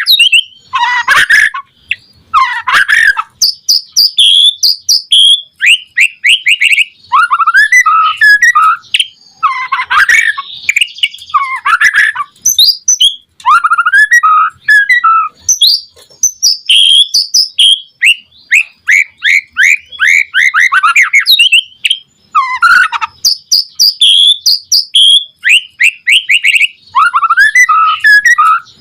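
White-rumped shama (murai batu) singing a loud, varied song: fast runs of repeated chirping notes, trills and gliding whistles, in phrases of a second or two separated by short pauses.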